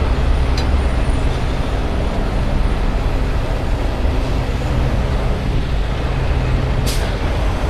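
Heavy wrecker's diesel engine running steadily with a low rumble, with a short sharp high-pitched sound near the end.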